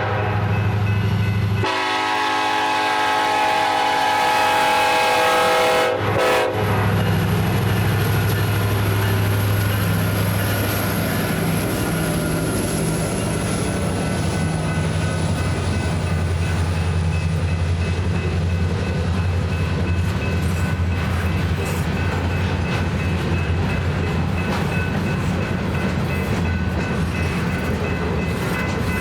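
Diesel locomotive air horn sounding on a BNSF train, a short blast and then a longer one that cuts off about six seconds in. After that comes the steady low rumble of the locomotives' diesel engines and the train rolling by on the rails.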